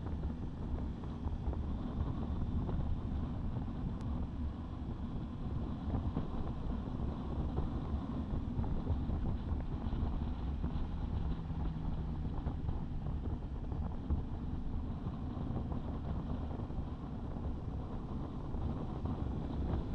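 Honda CB650R's inline-four engine running steadily through an Ixil aftermarket exhaust while riding, with wind noise on the microphone.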